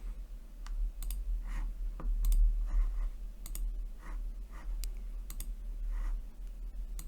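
About a dozen sharp, irregular clicks of a computer mouse and keyboard, over a low steady hum.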